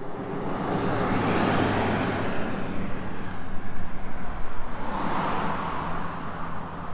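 Two cars passing by on the road one after the other, each one's tyre and engine noise rising and then fading away.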